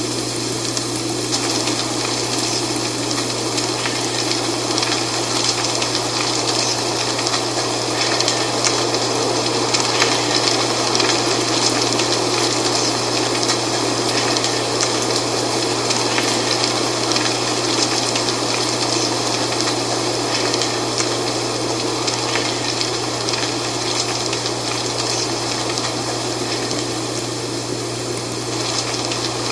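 Dry fall leaves rustling in the wind: a steady rushing hiss with fine crackling throughout.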